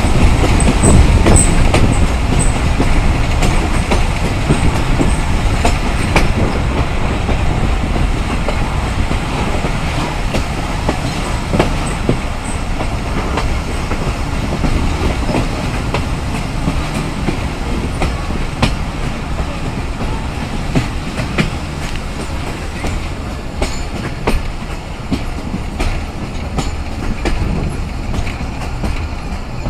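Passenger coach of the Awam Express running along the track, heard through an open window: a steady rumble with clickety-clack of the wheels over rail joints. It grows gradually quieter as the train slows on its approach to Kotri Junction.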